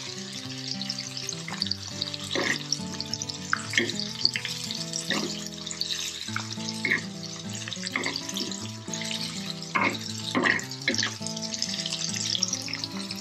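Chopped vegetables sizzling as they fry on a clay tava, with a metal spoon scraping and clinking against the tava as they are stirred, and background music underneath.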